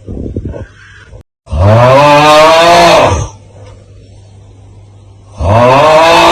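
The 'Aauuggh' meme sound, a man's loud, drawn-out groaning yell, looping. One full cry of about two seconds rises and then falls in pitch, and the next begins near the end.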